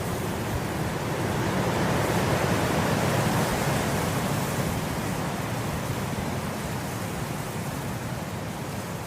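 Wind blowing through grass, a steady rushing that swells about two to four seconds in and then eases again.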